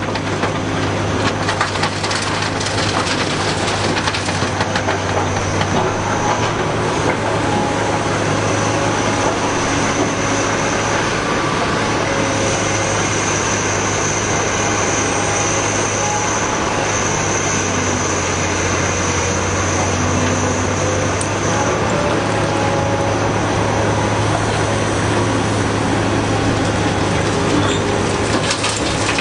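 A Caterpillar 245B hydraulic excavator's diesel engine running steadily with a deep hum while it works. A high, steady whine joins in from about twelve to twenty-two seconds in.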